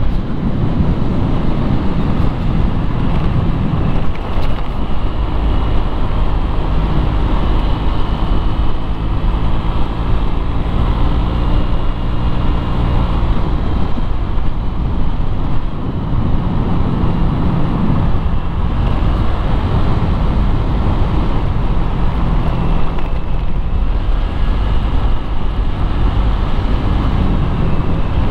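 Motorcycle ride recorded on a GoPro: a steady engine note running under heavy wind rumble on the microphone, with road traffic noise.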